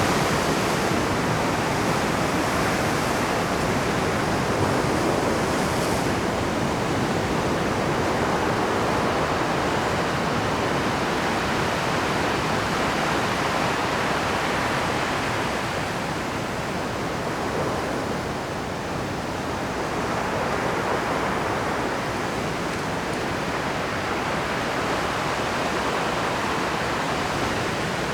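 Rough Pacific surf breaking without pause on a rocky shore: a dense, steady rush of crashing water that eases a little past the middle and builds again.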